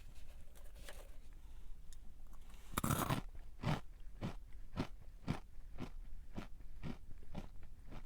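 Crunchy snack being bitten into close to the microphone, one loud crunch about three seconds in. Then steady chewing follows, with crisp crunches about twice a second.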